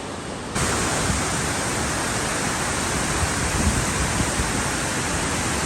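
Steady roar of El Chiflón's Velo de Novia waterfall, a dense even rush of falling water. About half a second in it jumps suddenly louder and then holds steady.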